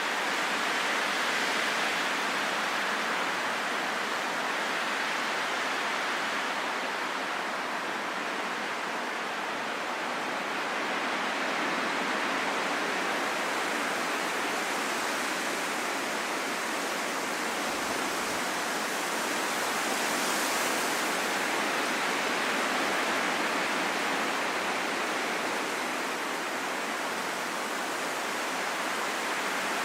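Steady rushing wind, an even hiss that swells and eases slowly over several seconds.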